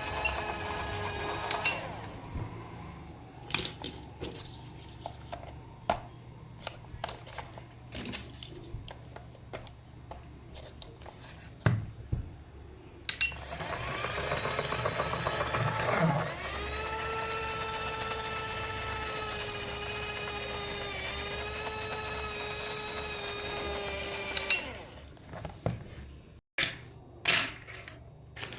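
Small electric motor of a modified spinner-helicopter toy whining at a high, steady pitch, cutting off about two seconds in. Scattered clicks and knocks follow. About thirteen seconds in the motor spins up with a rising whine, runs steadily for about eight seconds and stops, and a few sharp clicks come after.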